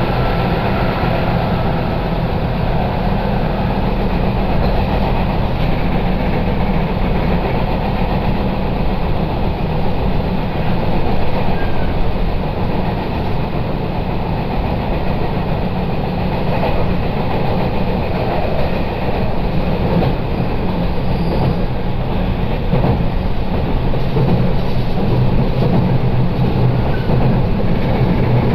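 Sagano Line electric train running at speed, heard from inside the passenger car: a steady rumble of wheels on the rails with a low motor hum.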